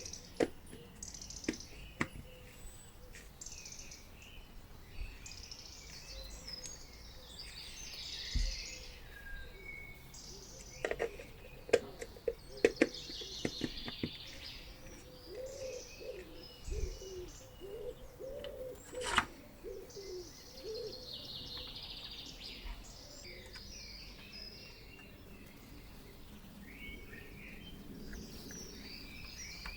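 Birds chirping and singing, with several sharp clicks or taps scattered through, the loudest of them in the middle stretch.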